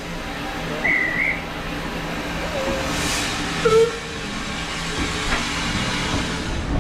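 Steam-hauled passenger train running, heard from on board: a steady rumble with a burst of steam hiss about three seconds in and a few short squeaks.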